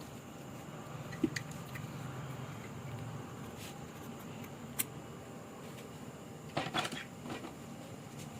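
Small metal engine parts being handled on a workbench: a sharp click about a second in, another near five seconds, and a brief clatter of knocks and clinks near the end, over a low steady hum.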